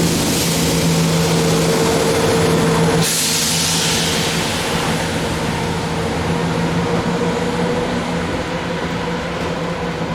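Diesel train running at the platform, with a steady engine drone and whine over a rumble. A short burst of hissing comes about three seconds in, and the rumble then carries on at a slightly lower level.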